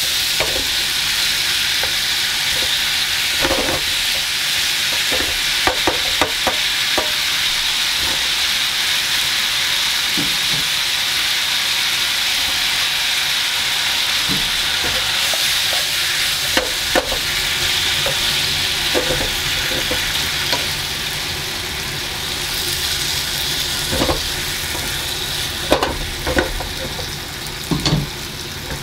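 Vegetables stir-frying in a nonstick frying pan: a steady sizzle, with scattered light knocks from a wooden spatula stirring them against the pan, in clusters at about 6, 17 and 25 to 28 seconds in.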